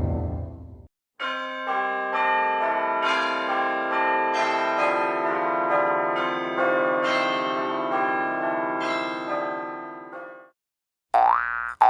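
A bell-chime sound effect: a run of ringing bell notes, a new note struck about every half second and each ringing on under the next, for about nine seconds before fading out. It follows the fading tail of a falling sweep, and springy boing tones begin near the end.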